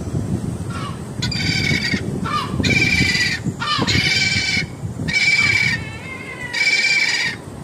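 Gull calling loudly over and over: a run of about six long, harsh calls, each under a second, with short downward-sliding notes between them.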